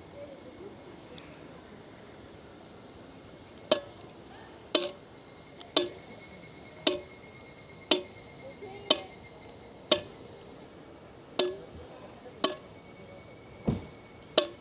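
Insects trilling steadily at a high pitch, strongest in the middle, with about ten sharp knocks roughly a second apart from about four seconds in.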